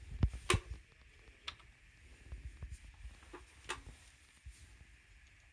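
Irregular clicks and knocks, the loudest pair within the first second, over a faint steady hiss.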